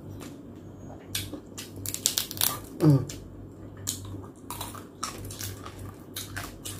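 Close-miked chewing and crunching of crispy roasted pork leg (lechon pata) skin and meat, a quick run of crackles and crunches throughout, with a short 'mm' hum about three seconds in.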